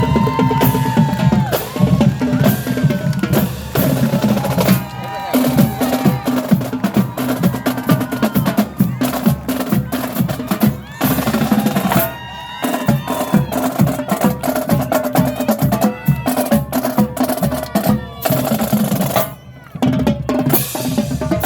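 Marching band playing, with the drumline to the fore: rapid snare strokes and rolls over bass drum hits, under sustained wind and brass notes. The music dips briefly near the end.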